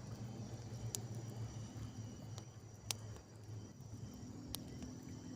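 Campfire crackling, with three sharp pops about a second, three seconds and four and a half seconds in, over a steady low hum and a faint high drone of insects.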